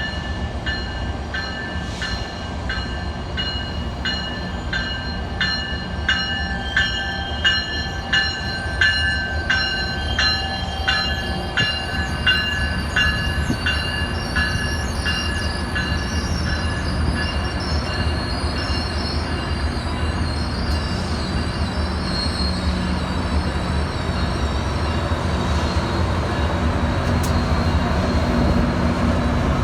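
A train moving through the station, its bell ringing about twice a second over a steady low rumble of the train; the ringing fades out after about twenty seconds.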